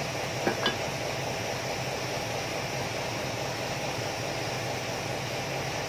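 Two light clicks of a part or tool being handled about half a second in, over a steady hiss and low hum.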